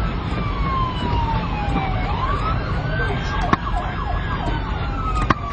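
Police sirens in wail mode, more than one at once, their pitch sliding slowly down and back up, over a steady low engine and road rumble. Two sharp clicks cut in, about three and a half and five seconds in.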